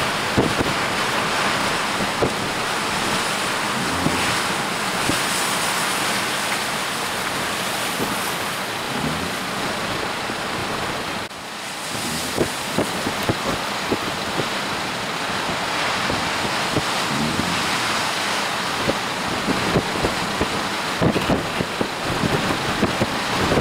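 Storm-force wind blowing hard over the microphone, mixed with the rush of surf, with many short buffeting knocks from the gusts in the second half and a brief lull about halfway.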